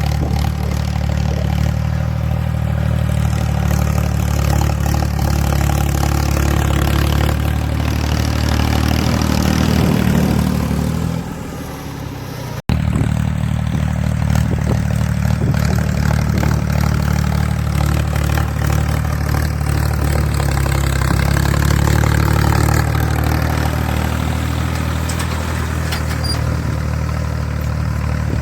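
1994 Ford 3600 tractor's three-cylinder engine running steadily while pulling a 16-disc harrow. The engine swells a little, then softens and breaks off for an instant a little under halfway through, before the steady running resumes.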